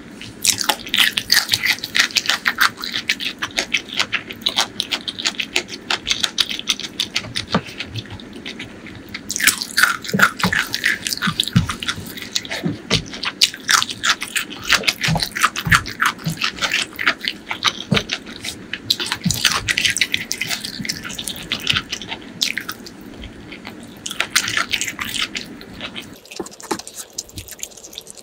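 Close-miked chewing and crunching of fried cauliflower: dense crisp crackles and smacks, thinning out near the end.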